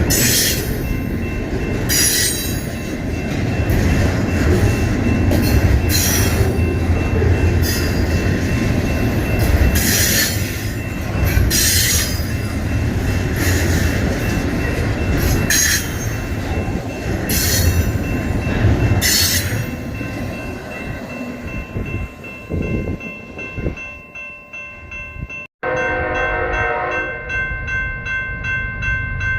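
Freight train rolling past: steady heavy wheel-and-rail rumble with repeated sharp high screeches and clanks every second or two, fading after about twenty seconds. After a sudden break near the end, a diesel locomotive's multi-note air horn sounds.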